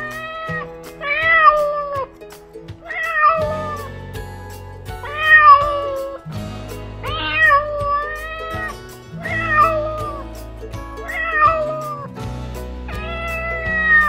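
A cat meowing repeatedly, about seven drawn-out meows roughly two seconds apart, over background music.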